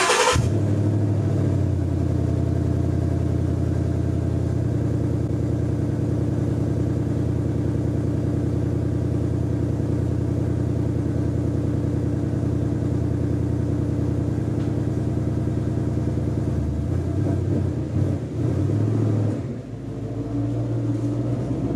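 2016 Ford Mustang GT's 5.0-litre V8 idling steadily just after a cold start, settling from the start-up flare at the very beginning, heard through Flowmaster axle-back mufflers with the stock resonator and cats; the owner finds it way too quiet. The sound wavers briefly about eighteen seconds in, then steadies again.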